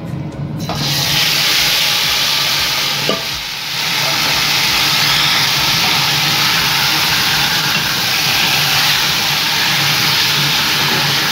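Marinated chicken pieces dropped into hot oil with cumin seeds and bay leaves, setting off a loud, steady frying sizzle about a second in. A knock and a brief lull come about three seconds in, then the sizzling carries on as the chicken is stirred, over a low steady hum.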